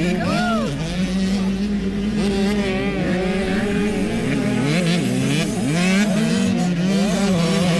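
Several motocross dirt-bike engines revving up and down at once, their pitches rising and falling over one another above a steady engine drone.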